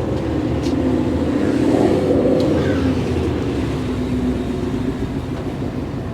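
A car engine running close by, swelling a little about two seconds in and then settling to a steady low drone.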